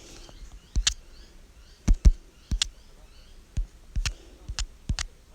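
A series of dull thumps and knocks, often in quick pairs, about one to two a second. Faint bird chirps sound in the background.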